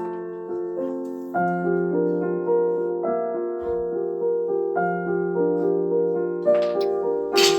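Background piano music: a gentle melody of struck notes that ring and fade. A short noisy sound comes in near the end.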